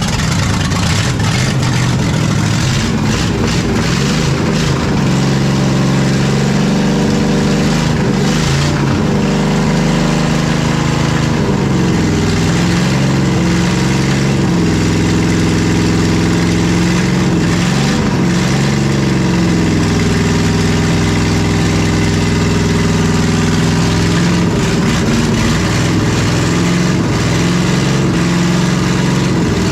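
Race-built small-block V8 from a NASCAR car, in a 1972 Mazda B1600, running loud just after starting, its speed stepping up and down several times.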